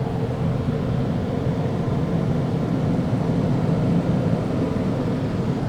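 Off-board drying blowers of a touchless car wash running steadily, blasting air over a slowly moving car. The sound is a continuous low rush of air with a faint steady hum.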